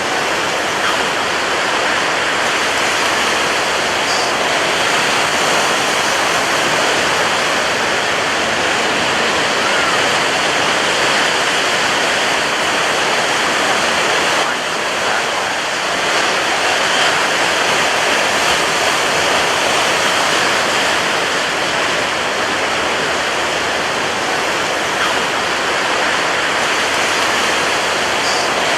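Ocean surf breaking on a beach, a continuous dense rush of water with hardly any rise and fall between waves, dipping briefly about halfway through.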